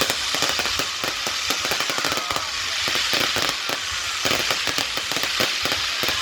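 Fireworks going off: a dense, continuous run of sharp pops and crackles, many cracks a second.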